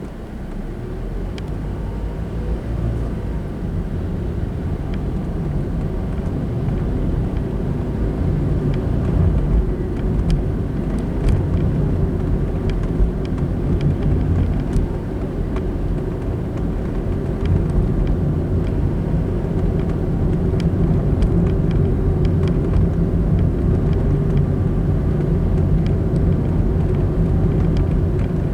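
Car road noise: a steady low rumble of tyres and engine, growing louder over the first eight seconds or so and then holding level.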